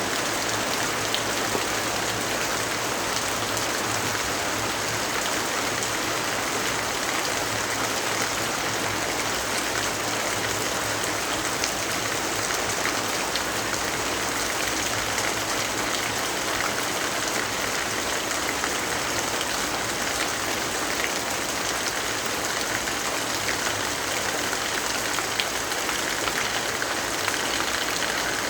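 Steady rain falling, an even hiss with scattered small ticks of individual drops.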